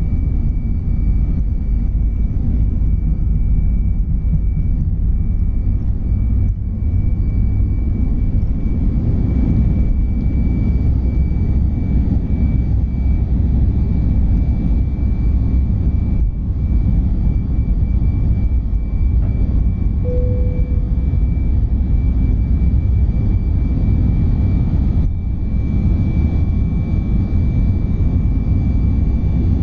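Airbus A319-111 airliner's CFM56-5B jet engines and airflow heard from inside the cabin: a loud, steady rumble with a thin high whine running over it.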